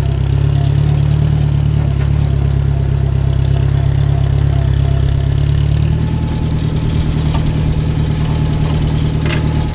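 Small farm tractor's engine running at close range, settling to a slower idle about six seconds in, with a short clank near the end.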